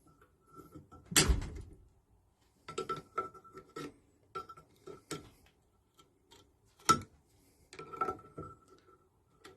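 Metal hand tools and engine parts clinking and knocking against each other in an irregular series of sharp knocks. The loudest come about a second in and near seven seconds in, and several leave a faint ringing tone.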